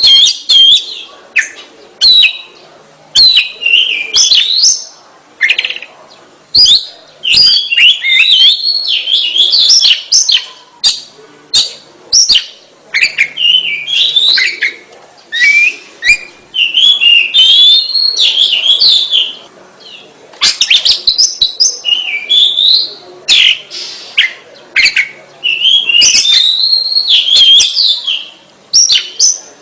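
Oriental magpie-robin singing loudly in full song: a long run of varied whistled phrases and quick rapid notes, sweeping up and down in pitch, broken by short pauses every second or two.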